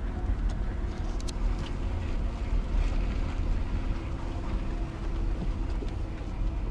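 Car on the move: a steady low rumble of engine and road noise, with a couple of faint clicks about a second in.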